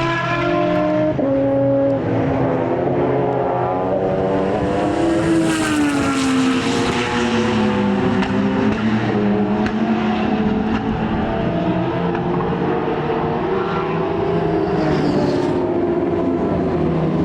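Racing car engines running hard on track, several engine notes overlapping; one note falls in pitch from about five to eight seconds in as a car passes or slows.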